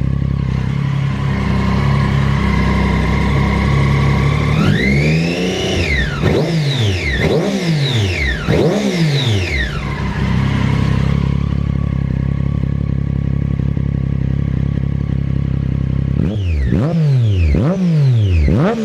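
Triumph Daytona 675R's three-cylinder engine through an Akrapovic full titanium exhaust, idling, then revved: one rev climbs about five seconds in, followed by a run of quick throttle blips before it settles back to idle, and another run of quick blips near the end.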